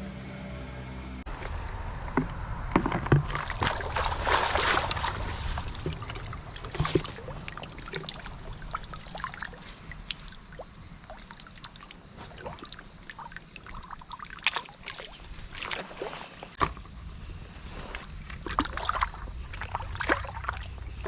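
Shallow stream water splashing and sloshing, with irregular knocks and clatters of stones, as the stream bed is stirred up to drive fish into a net (gasagasa).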